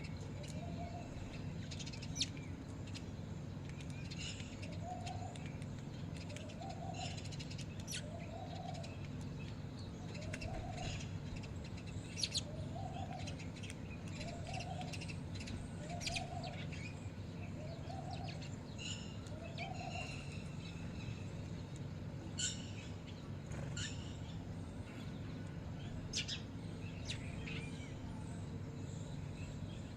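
Birds calling: a series of about ten low hooting notes, roughly one a second, that stops about two-thirds of the way through, with sharp high chirps scattered throughout.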